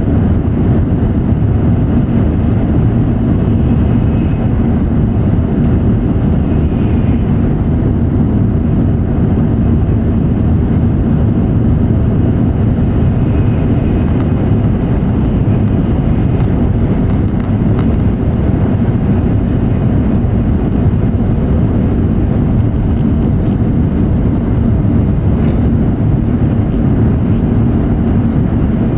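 Steady running noise of an E7 series Shinkansen train at speed, heard inside the car: an even, deep rumble that does not change, with a few faint clicks in the middle.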